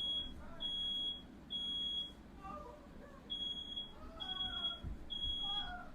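Smoke alarm sounding in the three-beep evacuation pattern: three long, high beeps, a pause, then three more. The alarm is going off at smoke from a fire that fireworks started in the room. Faint voices sound under the beeps.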